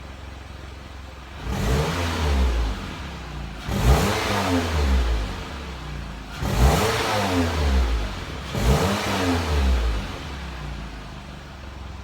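Mitsubishi Lancer GTS 2.4-litre four-cylinder engine idling, then revved four times in light blips through its exhaust, each rising and falling back to idle.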